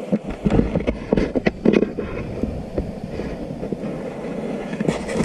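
Mountain bike rolling over a rough trail, with a quick run of rattles and knocks in the first two seconds, then steadier, and a low rumble of wind on the microphone.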